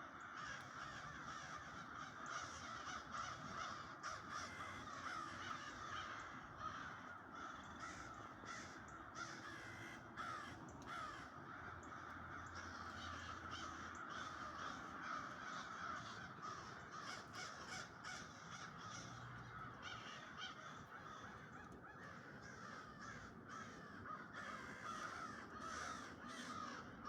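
A large flock of birds calling all at once, a dense, unbroken chorus of many overlapping harsh calls.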